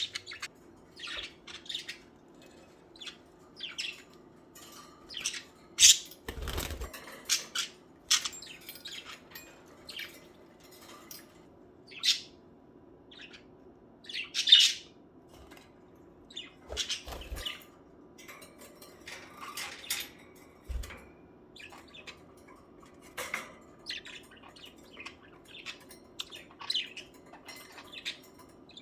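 A flock of budgerigars chirping and squawking in short, irregular high-pitched calls, several birds at once, with a few sharp clicks among them.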